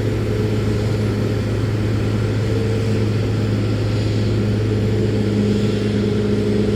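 Steady engine drone with a strong low hum and a few fainter steady tones, holding even throughout.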